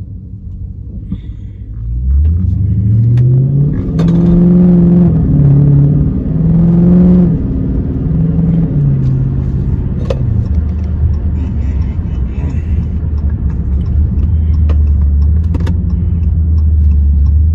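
Dodge Charger's 392 Hemi V8 pulling hard, its pitch climbing and stepping through several gear changes. About ten seconds in it settles into a steady low drone at cruise.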